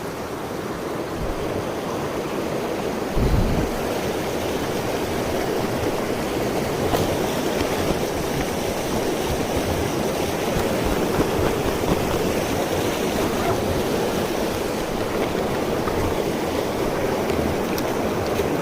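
Mountain stream water rushing steadily over rocks, with a brief low thump about three seconds in.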